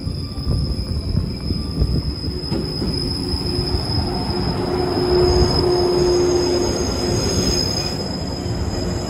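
Yellow JR West 115 series electric multiple unit rolling past alongside the platform: a steady rumble of wheels on the rails, with a held squeal rising and fading about three to seven seconds in.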